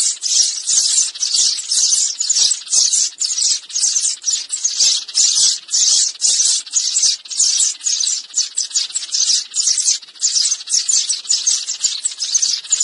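Sparrows chirping in a dense, unbroken chatter of short high chirps, several a second.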